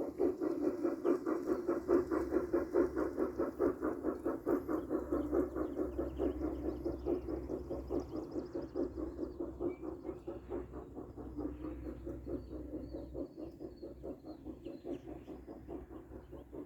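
Model Santa Fe steam locomotive running with its freight train: a rapid, even clatter over a steady hum, fading slowly as it goes by.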